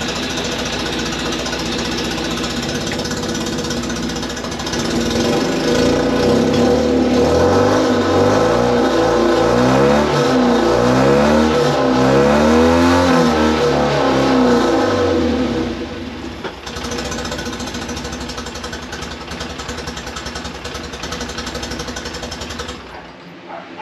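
Fiat X1/9's four-cylinder engine running in gear with the driven wheels off the ground, testing the newly replaced clutch and gearbox: its pitch rises and falls from about five seconds in to about sixteen, then it settles, and it shuts off near the end.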